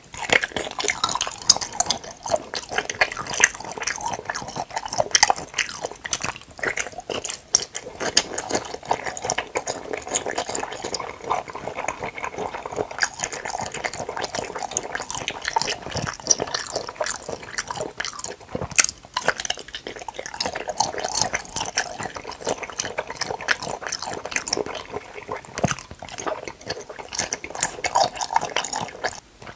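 Close-miked wet chewing of cup-shaped jelly: a bite, then a steady run of squishy, wet smacking and clicking mouth sounds.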